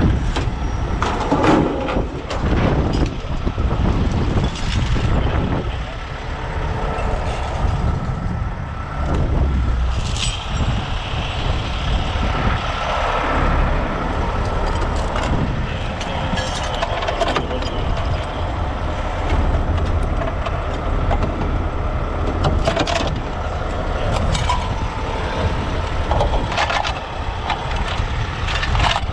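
Heavy diesel trucks running with a steady low rumble, broken several times by short metallic clanks and knocks.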